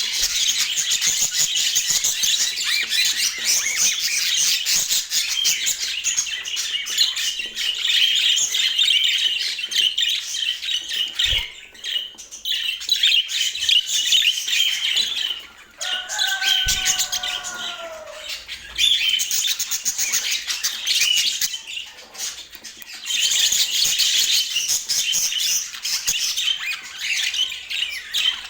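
Budgerigars chirping and warbling in dense, fast chatter, with short lulls about eleven and sixteen seconds in.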